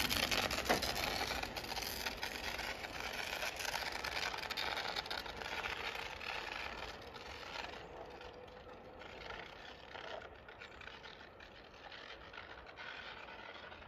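JR Hokkaido 721-series electric train pulling away and receding. The rumble and rattle of its running gear fade steadily.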